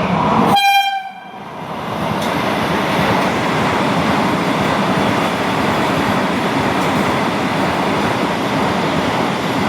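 A locomotive horn sounds once, briefly, about half a second in and cuts off sharply. It is followed by the steady rumble and wheel noise of a train running past.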